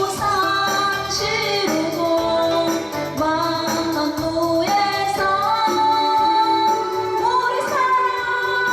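A woman singing a trot song over backing music, holding long notes that slide between pitches.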